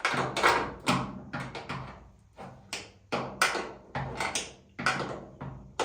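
Irregular string of sharp metal knocks and clanks, about two to four a second, as a socket wrench works at the hinge bolts of a steel truck-cab door.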